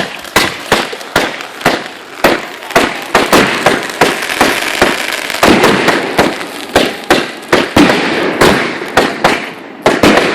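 Consumer fireworks going off in a rapid barrage: loud sharp bangs about two to three a second, with crackling between them. The barrage starts suddenly and runs thickest through the middle.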